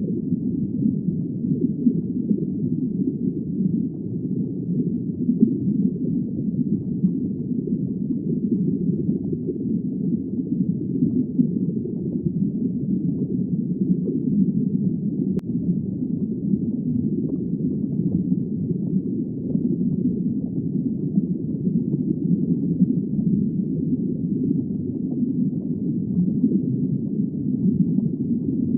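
Steady, muffled underwater ambience: a low, even rumbling wash of water with no high sounds and no distinct calls.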